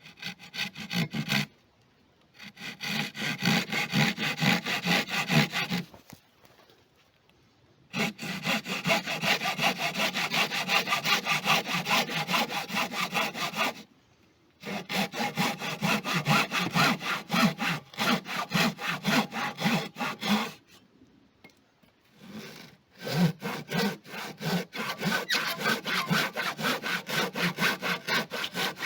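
Hand saw cutting wood in quick, even back-and-forth strokes, in five bouts with short pauses between them.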